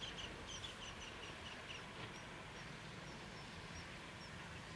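A small bird calling a quick series of short, high chirps that slows and grows fainter, with sparser notes continuing almost to the end, over a steady faint background hiss.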